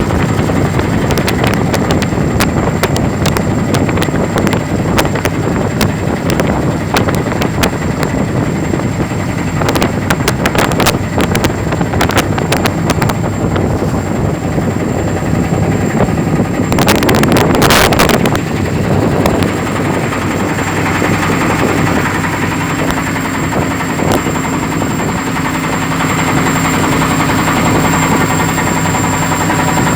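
A boat's engine runs steadily, with scattered crackles and a louder rush of noise lasting a second or two about halfway through.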